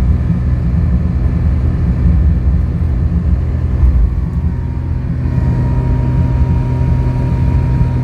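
Ferrari 328's V8 engine running steadily with a low rumble. A faint steady higher tone joins about five seconds in.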